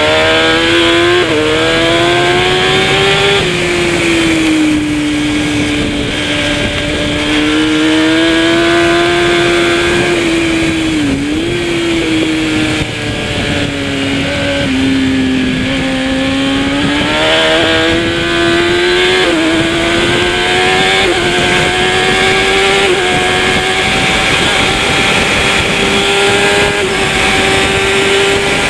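Kawasaki ZX-10R superbike's inline-four engine at racing speed. Its pitch climbs and steps up through quick gear changes, drops back under braking, and dips sharply once about eleven seconds in, over a steady rush of noise.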